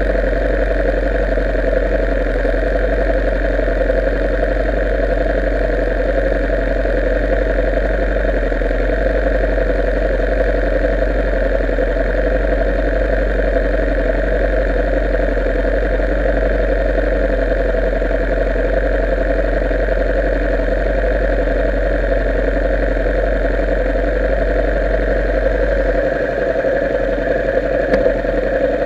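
Motorcycle engine running steadily at an even pitch, with a constant low rumble.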